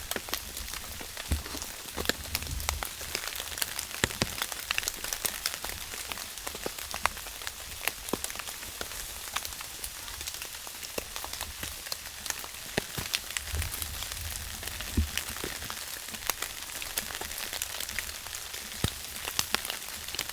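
Rain falling steadily, with many separate drops striking sharply close by over a continuous hiss.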